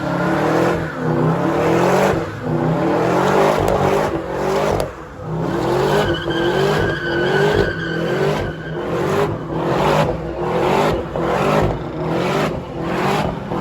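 Car engine revving up and down over and over while the tires squeal and skid: a car drifting. A thin tire squeal stands out about halfway through.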